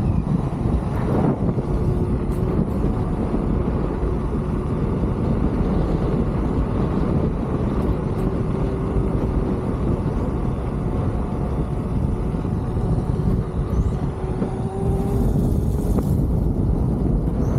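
Wind rushing over the microphone while riding an electric unicycle, with a faint steady whine running underneath.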